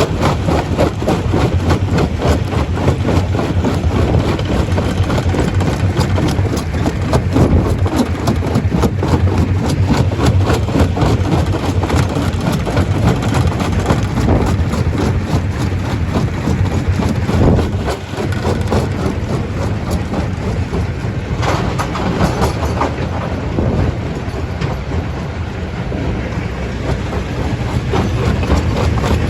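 Stone crusher running under load, with a steady heavy engine or motor drone and continual rapid knocking and rattling of rock being crushed.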